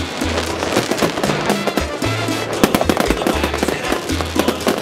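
Aerial fireworks going off in quick succession, with many sharp bangs and dense crackling, over music with a deep, pulsing bass line.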